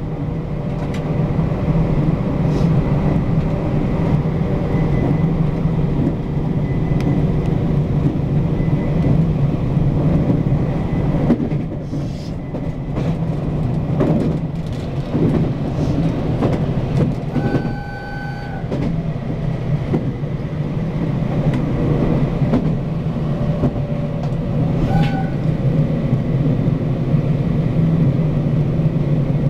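Local commuter train running on the rails, heard from inside the car: a steady low rumble with scattered clacks from the wheels. A brief high tone sounds about 18 seconds in, and a shorter one near 25 seconds.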